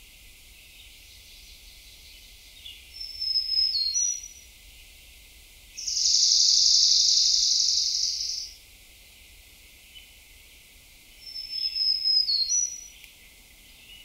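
Songbirds singing: two short songs of a few high sliding whistled notes, and between them a loud steady high trill lasting about two and a half seconds.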